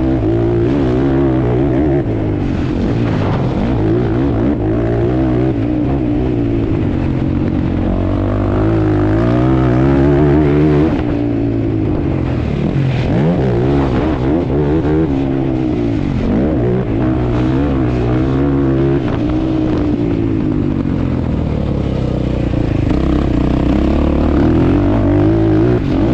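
ATV engine being ridden hard, revving up and down over and over as the rider works the throttle.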